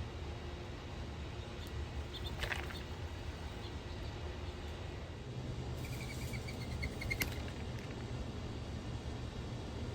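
A bird calling: one short call about two and a half seconds in, then a quick run of about eight short, even notes near the middle, over a steady low rumble.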